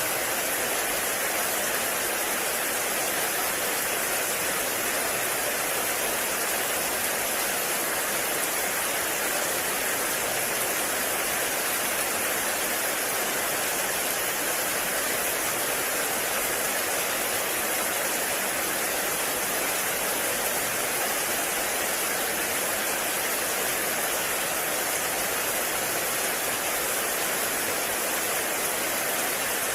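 Heavy rain falling in a forest, a steady, even hiss with no letup.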